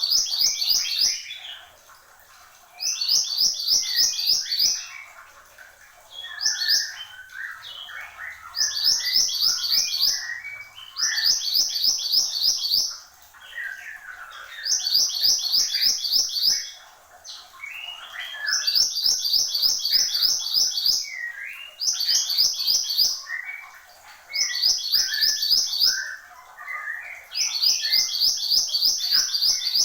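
Mantenan gunung songbird singing in full, lively song: repeated bursts of fast, high, trilled notes, each a second or two long, every couple of seconds, with lower chirping notes in between.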